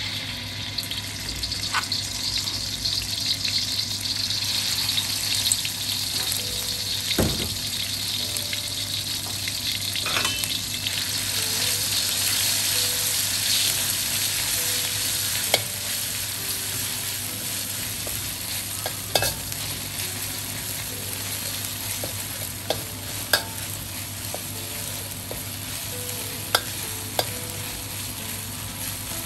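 Red curry paste sizzling as it fries in hot oil in a wok, stirred with a metal spatula that scrapes and taps against the wok now and then. The sizzle starts as the paste goes in and eases off somewhat in the second half.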